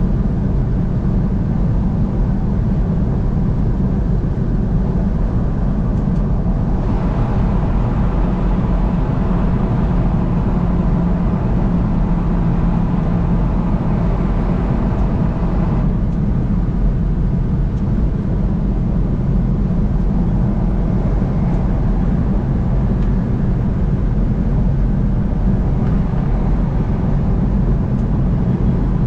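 Steady road and engine rumble of a vehicle driving on an interstate highway. A brighter rushing hiss is added from about seven seconds in and stops abruptly near the middle.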